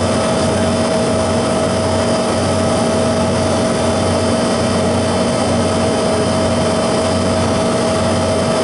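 Refrigeration condensing unit running steadily: the compressor, fitted with a new valve plate, and the condenser fan, with a steady hum and a faint steady whine, while the system takes its refrigerant charge.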